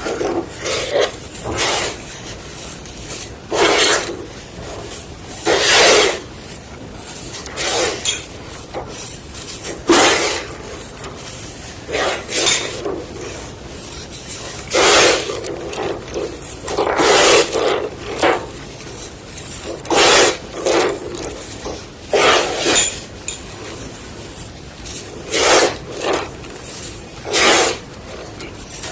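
A slab of gym chalk being crunched: a crunch about every two seconds, a dozen or so in all, with softer crumbling sounds in between.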